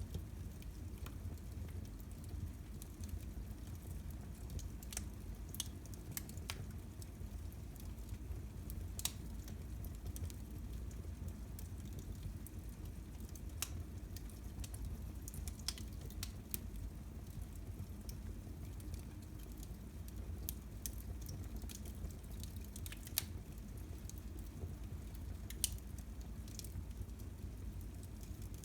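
Wood fire burning in a fireplace: a steady low rumble with scattered sharp crackles and pops every second or two.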